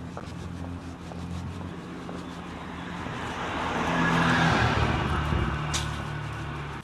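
A car passing, its engine and tyre noise building to a peak a little past halfway and then fading.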